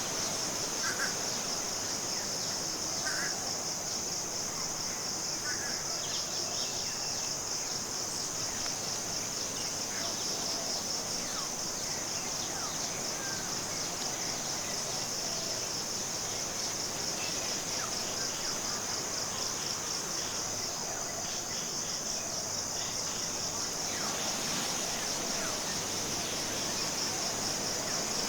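Tropical forest ambience: a steady, high-pitched rapidly pulsing insect chorus, like crickets, runs throughout, with a few short bird chirps in the first few seconds.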